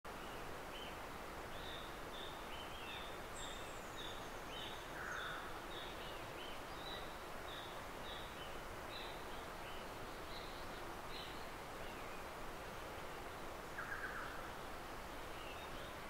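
Forest ambience with a steady hiss, and a bird calling in short repeated high chirps, about two a second, for the first ten seconds or so. A single thin falling whistle comes about three seconds in, and there are two brief scratchy rustles, one about five seconds in and one near fourteen seconds.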